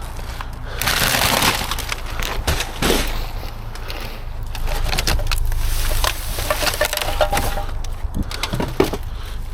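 Junk and debris shifting and crunching inside a dumpster, with scattered knocks and cracking sounds over a steady low rumble.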